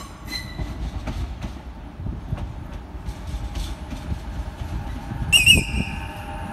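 Renfe class 447 electric commuter train rolling in along the platform: low rumble and clicking of the wheels over the rails, with a loud high squeal about five seconds in, followed by a steady whine.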